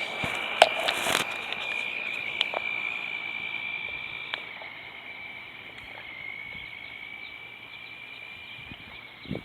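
Electric RC car's motor whining at a steady high pitch as it runs at speed, growing gradually fainter, with a few light clicks.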